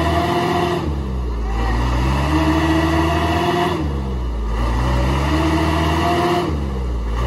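Truck engine revving hard in repeated surges, its pitch rising and holding for about two seconds before dropping off, three times over.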